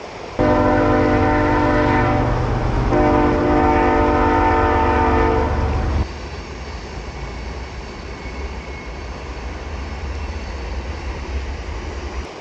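Train horn sounding two long blasts back to back, a loud chord of steady tones, followed by a low steady rumble that cuts off suddenly near the end.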